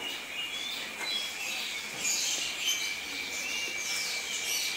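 Birds chirping and twittering with short high whistles, over a steady high-pitched drone.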